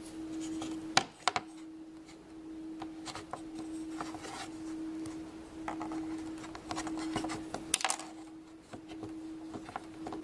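Hands working Play-Doh and small plastic pieces: soft rubbing and handling noises with a few sharp clicks, the clearest about a second in and near the end. A steady faint hum runs underneath.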